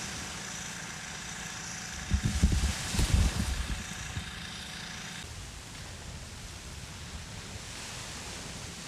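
Steady outdoor background noise, with a burst of low rumbling thumps about two to four seconds in.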